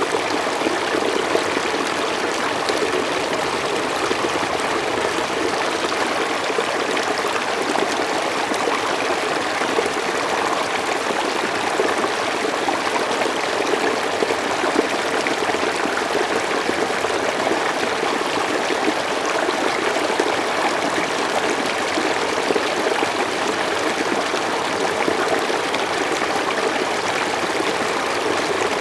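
Mountain stream flowing steadily over rocks, a constant rush of water with small splashes and trickles.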